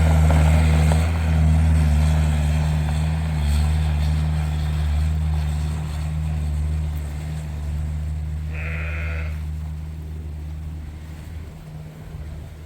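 A steady low mechanical hum that slowly fades away toward the end. About eight and a half seconds in, a sheep bleats once, briefly.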